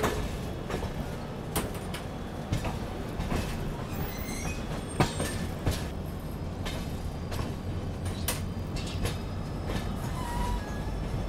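Moving passenger train: a steady rumble with irregular clatter of the coach wheels over rail joints and points. A brief high wheel squeal comes about four seconds in.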